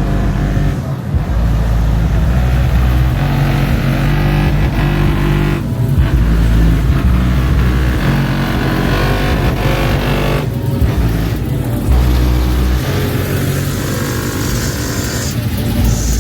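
Car engine running hard and loud, revving up and down, with short dips in the noise every few seconds.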